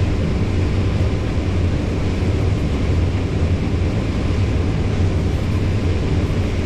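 Combine harvester running while harvesting corn, heard from inside the cab: a steady, unbroken drone of engine and machinery with a strong low hum.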